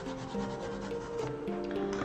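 Soft background music with long held notes, over a drawing tool rubbing across paper as colour is filled in.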